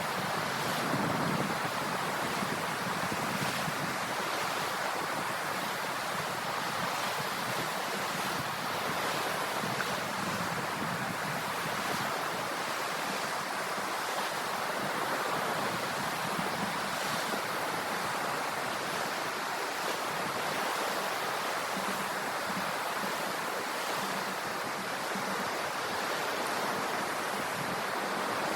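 Sea waves washing onto the shore in a steady, continuous surf.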